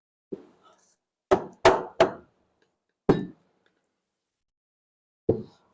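Hand tools knocking against wood and metal: six short, sharp knocks at uneven spacing, three of them close together between one and two seconds in.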